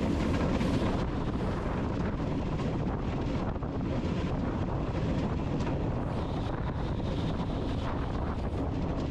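Steady rushing wind noise on the microphone, even throughout with no distinct events.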